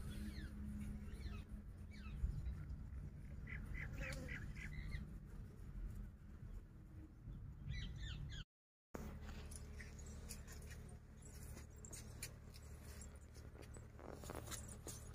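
Faint outdoor ambience over a steady low rumble. A bird calls in a quick run of short chirps about four seconds in and again just before the middle. The sound cuts out for about half a second.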